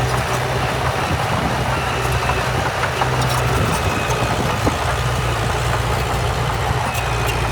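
Heavy diesel earthmoving machinery running steadily with a constant low engine hum, and scattered light clicks and clanks over it.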